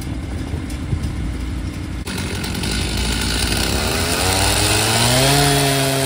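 A Stihl chainsaw revving up, its pitch rising over about a second and then holding steady at high revs as it cuts the corner off a log that was catching on the sawmill's saw guide. In the first seconds there is only a low, steady engine rumble.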